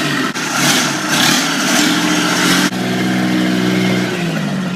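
Straight-piped utility-vehicle (Gator) engine with its muffler removed, revved in a few quick bursts, then held at a steady higher speed before dropping back down near the end.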